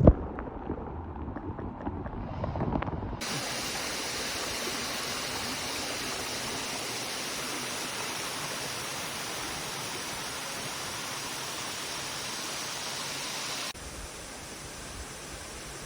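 A sharp thump, then scattered knocks and handling noise for about three seconds. After that comes the steady rush of a waterfall, which switches in abruptly and drops in level suddenly near the end.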